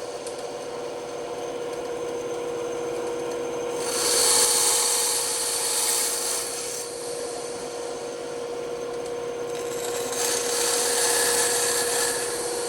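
Bandsaw running with a steady hum while its blade cuts through wood. The cutting noise grows louder about four seconds in and again about ten seconds in.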